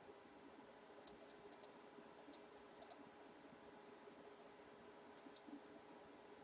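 Near silence with faint, sharp clicks, several in pairs, scattered through the quiet over a low steady hum.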